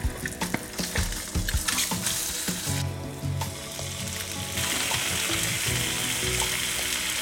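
Food frying in hot oil in a pan: crackling pops for the first few seconds, then from about halfway a steady, louder sizzle.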